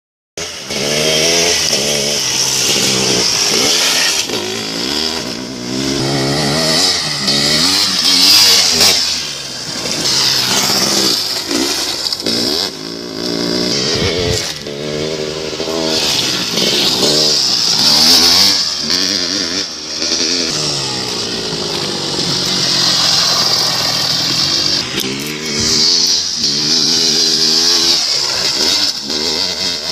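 Motocross dirt bike engine revving hard and easing off over and over, its pitch climbing and dropping every second or two as the bike accelerates and shifts.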